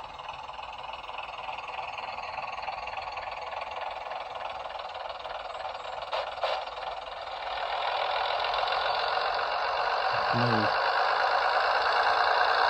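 Sound-decoder recording of a Class 101 diesel multiple unit's engine, played through a model train's small speaker, revving up on its own and getting steadily louder from about seven seconds in. Two short clicks sound around six seconds in.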